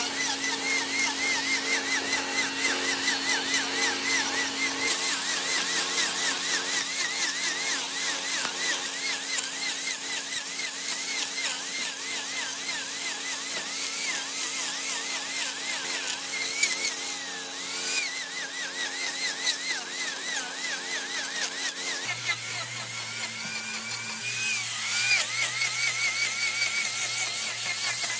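The high, wavering whine of a power tool working wood, under background music with held chords that change twice.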